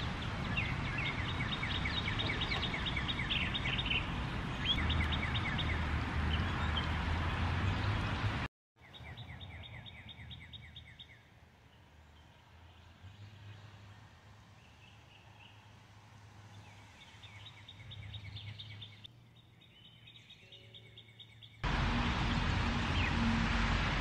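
Songbird trilling repeatedly, fast runs of high notes, over a steady outdoor noise. The noise drops sharply about a third of the way in and comes back louder near the end.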